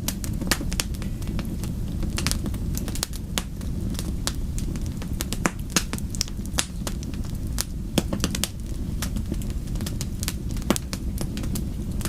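Wood fire crackling, with irregular sharp pops and snaps several times a second over a steady low rumble of the flames.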